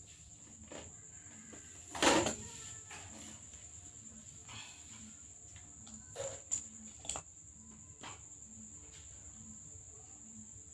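A steady high-pitched insect trill, like a cricket, runs throughout. A sharp knock comes about two seconds in, and a few smaller clicks or taps follow between six and seven seconds.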